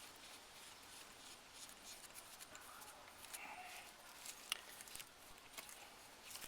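Near silence with faint clicks and rustles from handling small plastic compressor parts and attachments, with one sharper click about four and a half seconds in.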